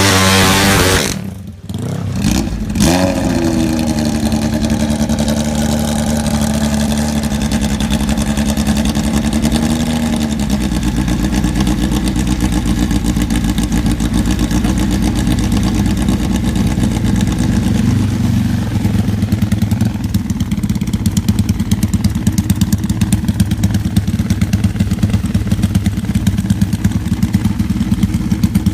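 Superbike engine: a loud burst at the start and a brief drop, then running steadily at a held pitch, which sinks about ten seconds in to a lower, lumpy idle with a regular pulsing beat.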